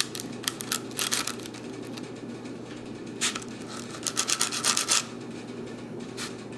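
80-grit sandpaper rubbed against a painted fingerboard truck to strip the paint, in short scratchy strokes: a few about half a second to a second in, then a quick run of strokes from about three to five seconds in.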